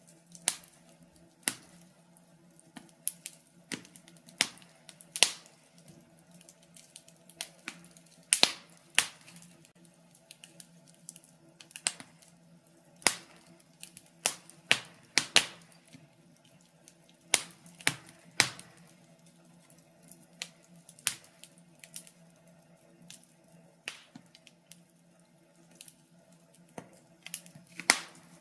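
Wood fire in a fireplace crackling, with irregular sharp pops of varying loudness over a faint steady hum.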